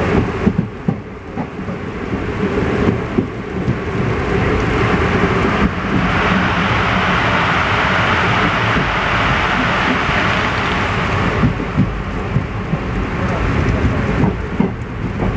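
Express train sleeper coach running along the track in heavy rain: a steady low rumble with the clatter of wheels on the rails under a rushing hiss of rain. About six seconds in, the hiss grows louder and brighter for several seconds, then drops back.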